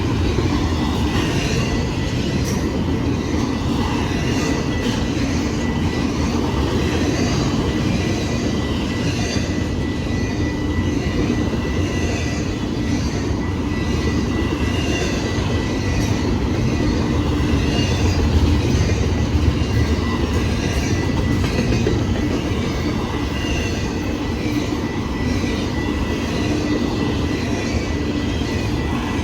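Freight train's cars rolling steadily past, a continuous rumble with wheels clattering on the rails and a faint, steady high-pitched squeal.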